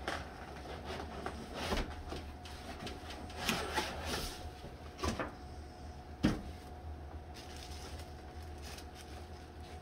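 Cardboard and plastic packaging of a coffee maker being handled during unboxing: scattered knocks and rustles, the sharpest knock a little past the middle, over a steady low hum.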